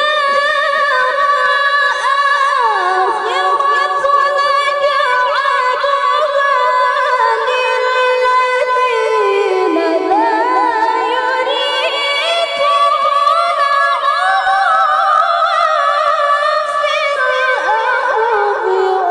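A woman's voice reciting the Quran in melodic tilawah (murattal/mujawwad style), unaccompanied. She sustains a long, high, ornamented phrase that glides and turns in pitch, stepping down in register a few times.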